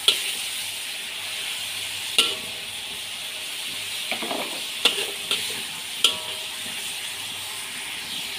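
Pork intestines frying in hot pork fat in a wok, a steady sizzling hiss, while a metal spatula stirs them, clinking sharply against the wok a few times.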